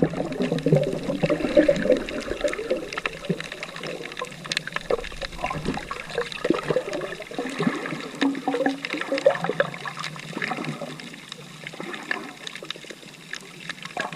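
Shallow sea water splashing and sloshing, with many small irregular clicks and knocks.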